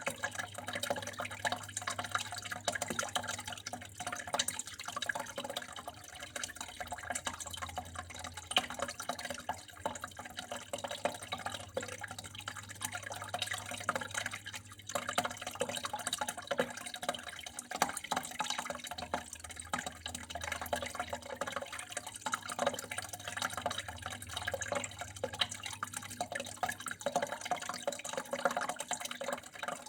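Water flowing and trickling steadily, with many small splashes and drips, and a faint low hum underneath.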